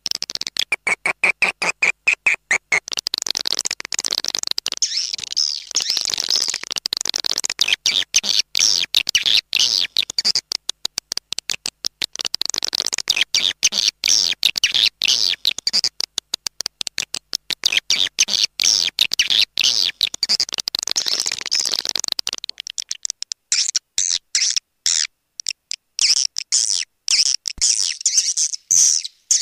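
Swiftlet call recording: dense, rapid twittering chirps of swiftlets, the lure sound used to draw swiftlets into a nesting house. About two-thirds of the way through the fuller background falls away, leaving sparser high chirps.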